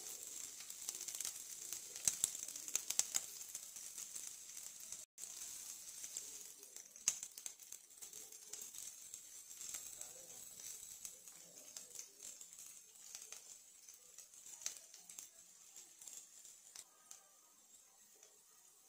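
Chopped garlic, green chillies and onions frying in hot oil in a nonstick pan: a steady sizzle full of small crackles and pops. It starts up suddenly as the chillies hit the oil, cuts out for an instant about five seconds in, and dies down near the end.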